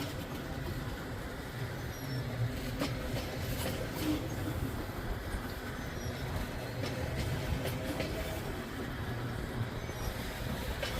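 Freight train cars rolling past: a steady rumble of steel wheels on rail, with sharp clicks scattered through it as wheels pass over the rail.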